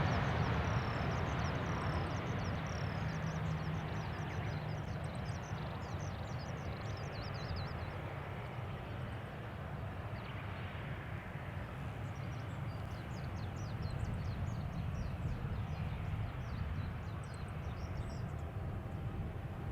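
A Boeing 737-800's CFM56 jet engines dying away into a distant low rumble as the airliner slows on its landing roll, with birds chirping busily throughout.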